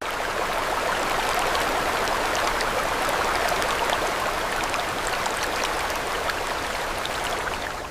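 Steady rushing water, a dense hiss speckled with many small drop-like ticks, which starts abruptly and cuts off suddenly near the end.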